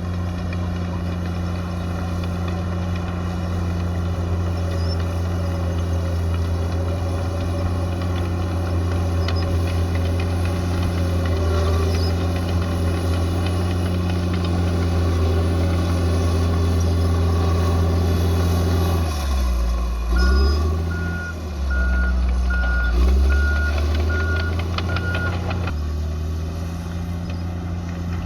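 Bulldozer's diesel engine running steadily under load. About two-thirds of the way in, its pitch dips and recovers twice, and a reversing alarm sounds about seven short beeps as the machine backs up.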